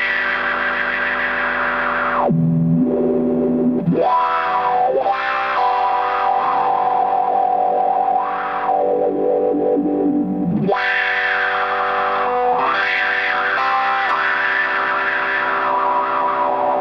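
Electric guitar played through a Lovepedal Eternity–style overdrive pedal, giving a distorted tone. Sustained notes and chords ring out, with notes sliding or bending up and down in pitch several times.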